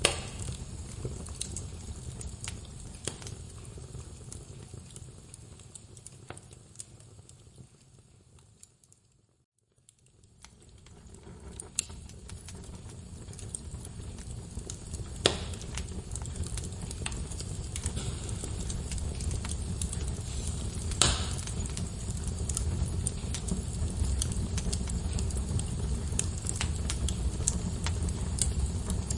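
Wood fire crackling: a low steady rumble of flames with scattered small crackles and a few sharper pops. About a third of the way in the whole sound fades out to near silence and then fades back in.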